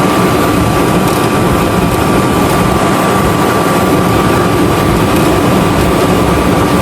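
Dometic RV furnace's blower fan running steadily, an even rush with a thin steady whine through it, while the furnace cycles without the burner lighting; the owner suspects a faulty sail switch.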